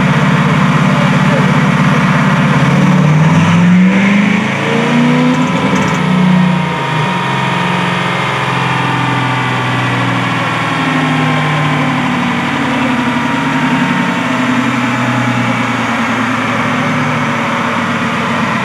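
A car engine idling, revved up and back down a couple of times about three to six seconds in, then settling back to a steady idle.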